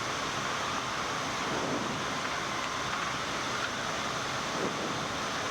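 Steady rushing airflow noise on the flight deck of a Boeing 787-9 on final approach, with the landing gear down and flaps extended.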